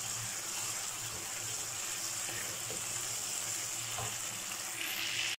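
Tomato paste and ginger-garlic paste sizzling in hot oil in a nonstick wok, stirred with a wooden spatula. The sizzle is a steady hiss that cuts off suddenly at the very end.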